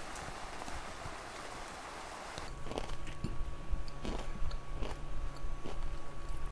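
Rain falling on the tent, then a crunchy snack being bitten and chewed close to the microphone, a handful of crunches over the last few seconds.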